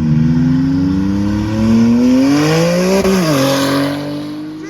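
Loud car engine accelerating hard, its pitch rising steadily for about three seconds, then dropping sharply and holding steady.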